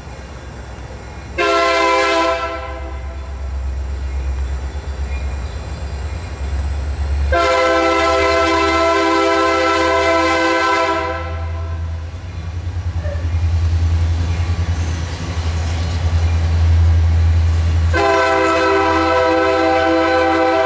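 Diesel locomotive air horn on a Union Pacific work train sounding three blasts: a short one about a second and a half in, a long one of about three and a half seconds near the middle, and another starting near the end. A low engine rumble runs underneath and grows louder as the train approaches.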